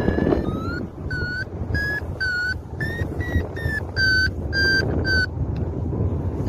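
Paragliding variometer beeping in short pitched tones about twice a second, the pattern a vario gives while the glider is climbing in lift, over steady wind rushing across the microphone in flight.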